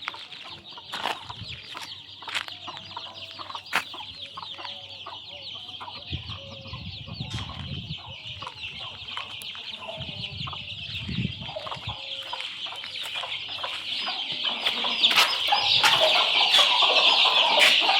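A brood of desi chicks peeping continuously in a dense high chorus, louder over the last few seconds, with a hen's low clucks now and then and scattered light clicks.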